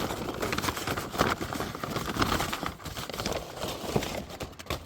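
Crinkling and rustling of a Pokémon card pack's plastic wrapper being handled, a dense run of small crackles.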